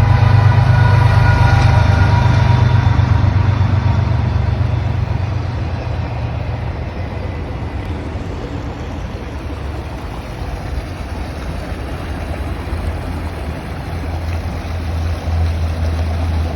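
A train's engine drone, loudest at the start and fading over the first several seconds as the train moves off, over a steady rush of creek water. A low engine hum builds again near the end.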